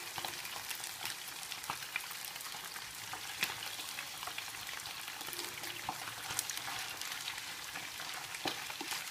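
Skinned frogs deep-frying in hot oil in a nonstick pan over high heat: a steady sizzle with scattered crackles and pops. Near the end, chopsticks shift the frogs in the pan.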